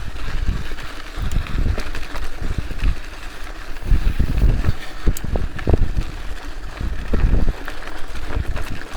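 Wind buffeting the microphone in uneven low gusts, with scattered small clicks and knocks.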